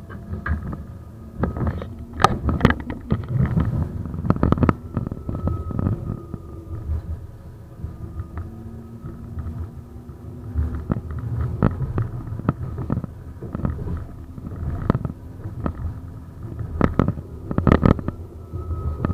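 71-931M Vityaz-M low-floor tram running: a low rumble with many irregular knocks and clatters from the wheels on the track, and a faint steady whine.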